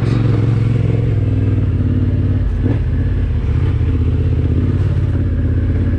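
Adventure motorcycle engine running steadily at low revs, with a brief dip about two and a half seconds in.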